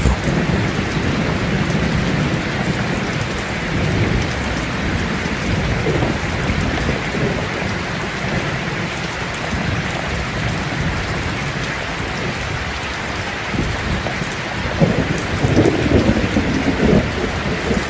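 Steady rain falling, with low thunder rumbling underneath and swelling near the end.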